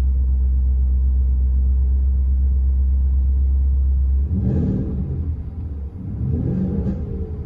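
Ford F-250's 7.3-litre gas V8 through a Flowmaster 50 Series true dual exhaust, idling with a steady deep rumble, then revved twice from about four seconds in.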